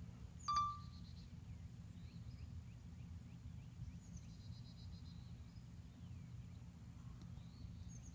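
Faint songbirds calling: scattered chirps, quick trills and down-slurred whistles over a steady low rumble. A sharp short note with a brief ringing tone about half a second in is the loudest sound.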